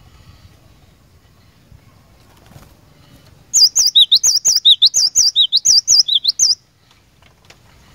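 Cinereous tit singing a loud, rapid run of repeated whistled notes that swoop up and down, lasting about three seconds and starting about halfway through.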